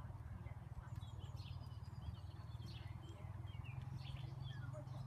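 Birds chirping and singing: many short, high chirps and quick notes over a steady low rumble.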